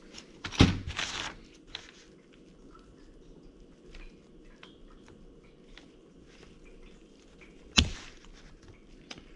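Hand tools and metal axle parts knocking and scraping while a CV axle is taken apart: a sharp knock about half a second in, followed by a brief scrape, then scattered small clicks and another sharp knock near the end.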